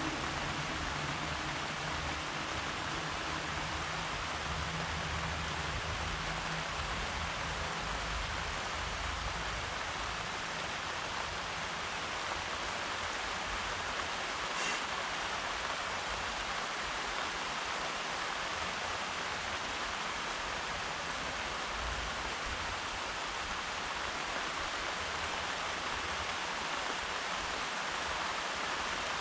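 Steady rain falling, an even hiss. A low rumble lies under it for the first several seconds and then fades out.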